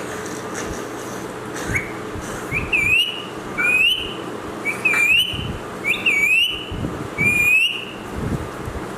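A parrot whistling the same short note five times, roughly once a second. Each note dips and then rises in pitch.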